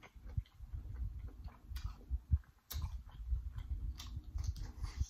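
Close-miked chewing and wet lip smacking on a sauce-coated prawn, with irregular sticky mouth clicks over a low rumble.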